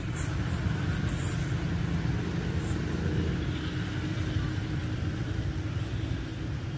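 Steady low rumble of a train rolling along the track.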